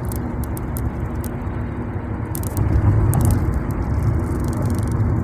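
Road and engine noise heard from inside a moving vehicle: a steady low rumble that gets somewhat louder about two and a half seconds in, with a few faint clicks.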